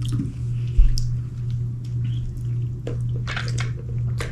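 Eating and food-handling noises: short, scattered smacks and clicks, with a steady low hum under them.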